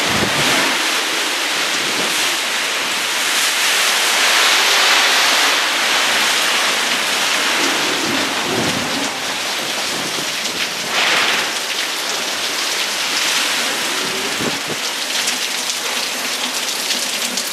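Heavy rain pouring down in a summer storm, a dense steady hiss that swells about four seconds in and again briefly about eleven seconds in.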